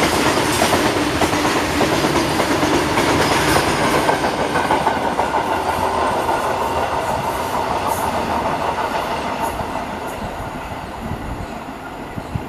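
Indian Railways freight train of open box wagons running through a station at speed: steady rolling wheel and wagon noise, loud at first, fading from about halfway through as the brake van at the tail goes by and the train draws away.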